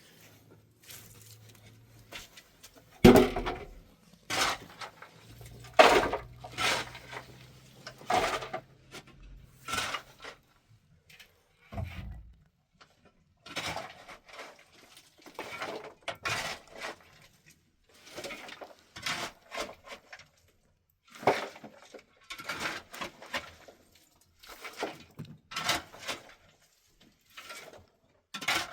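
Irregular clatter and knocks of hard objects being handled, like pots and dishes, with the loudest knocks about three and six seconds in.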